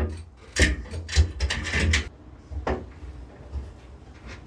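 Clamps being fitted and tightened to hold a level against a wooden board: a quick run of knocks and clicks over about a second and a half, then one more knock.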